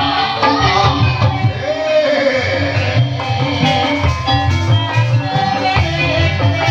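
Live Javanese gamelan music accompanying an ebeg horse dance: kendang drums keep a steady beat under held metallophone notes, with a singing voice gliding over the top.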